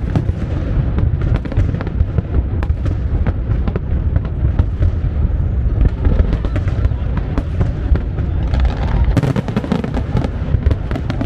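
Fireworks display: a dense, unbroken run of bangs and crackles from aerial shells over a steady low rumble, with a thicker flurry of sharp cracks about nine seconds in.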